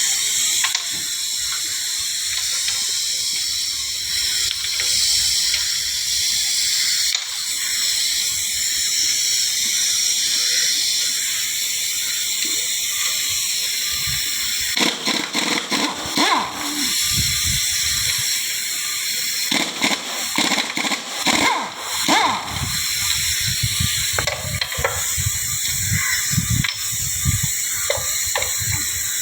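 Steady loud hiss, like air or a spray. Bursts of clattering knocks come in at several points during the second half.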